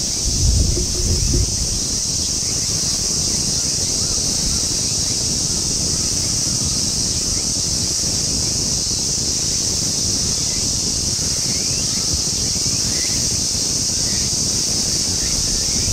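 Outdoor ambience: a steady high hiss, with wind buffeting the microphone about half a second to a second and a half in, and a few faint short chirps.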